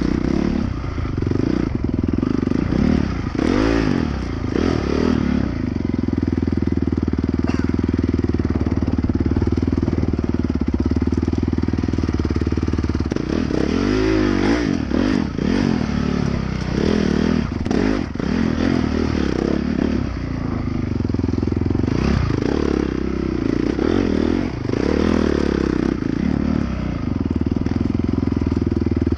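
Dirt bike engine being ridden hard, its note rising and falling again and again as the throttle opens and closes.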